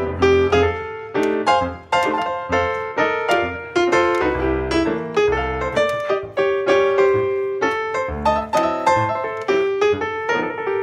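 Background piano music: a steady run of piano notes, several a second.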